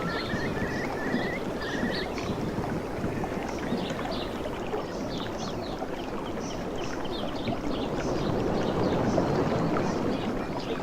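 Waves washing on a beach, a steady rushing that swells a little near the end. A bird calls a few short notes in the first two seconds.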